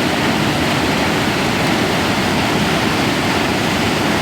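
River in heavy flood after extreme rain: a loud, steady rush of fast-moving water.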